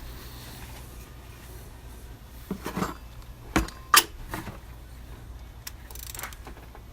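A few sharp metallic clicks and knocks, the loudest about four seconds in, as a cap-style oil filter wrench and tools are handled on a top-mounted oil filter.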